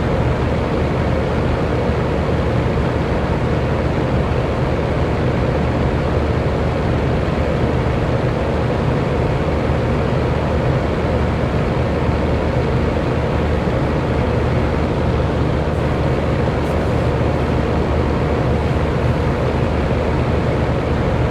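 Electric fan running steadily: an even rush of air with a low hum and a faint motor tone.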